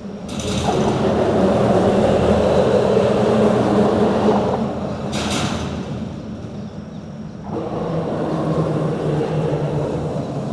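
Road traffic crossing a bridge: a vehicle passes with a long rumble of tyres and engine, a short hiss comes about five seconds in, and a second vehicle follows a couple of seconds later.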